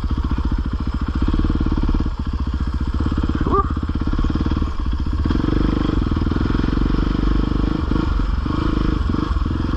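450 four-stroke dirt bike engine running at low to middle revs at trail pace. The throttle briefly closes about two seconds in, again near five seconds, and several times near the end.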